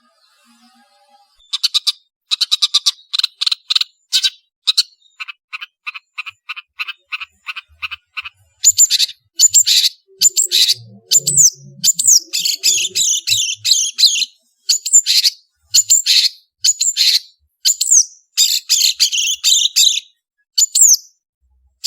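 Long-tailed shrike (cendet) singing: rapid runs of short clicking notes, then, from about eight seconds in, louder harsh chattering phrases mixed with quick slurred whistles.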